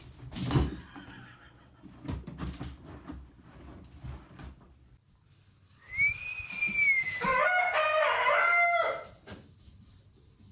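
Rooster crowing once, a long call of about three seconds that rises, dips and then holds. A thump and a few light knocks come before it.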